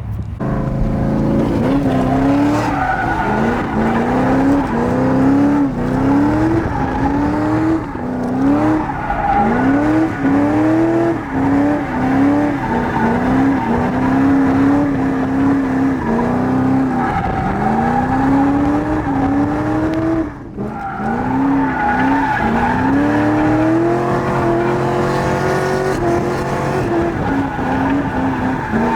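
C6 Corvette V8 drift car at high revs, the engine note climbing and falling back over and over under throttle, with tires squealing through a drift.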